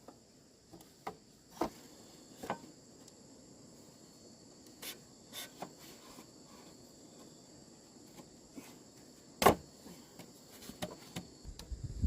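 Insects drone steadily and high-pitched, while sharp knocks and taps sound irregularly, about eight of them, the loudest about three-quarters of the way through.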